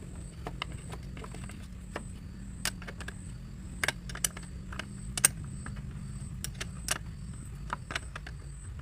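Scattered light metallic clicks and clinks, as of tools and parts being handled during car repair work, over a steady low hum.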